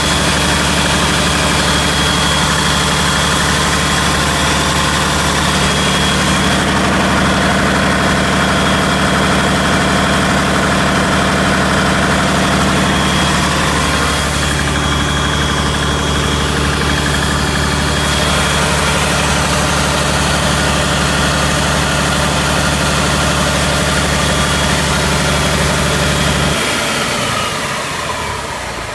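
Komatsu SAA6D140-3 turbocharged six-cylinder diesel engine running steadily at idle, with a steady high whine over the engine note. Near the end the engine is shut off: the low running sound stops and the whine falls away.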